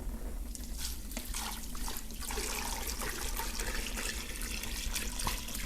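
Water being poured from a large plastic water jug into a cooking pot of meat and bones, a steady stream of water beginning about half a second in.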